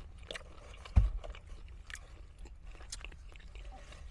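Close-up chewing and crunching of fried chicken wings, with scattered small crisp clicks and one heavy dull thump about a second in.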